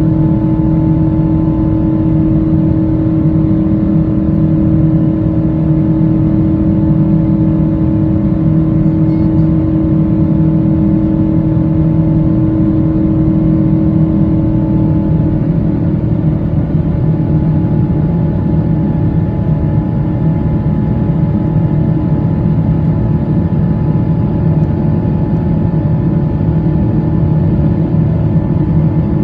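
Boeing 777-200ER's Pratt & Whitney PW4090 turbofans heard from inside the cabin beside the wing during the climb after takeoff: a deep, steady rumble with a ringing whine of several held tones, which shift slightly about halfway through.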